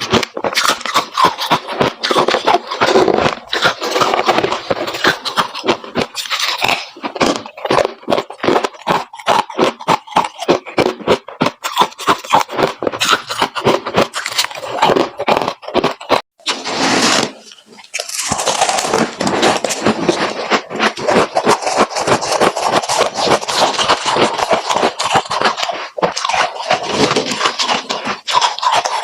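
Freezer frost being chewed close up: a rapid, continuous run of crisp crunches, with a short pause about sixteen seconds in.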